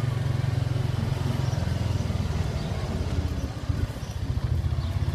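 Motorcycle engine running with a steady, low, rapidly pulsing exhaust note, easing off briefly past the middle before picking up again.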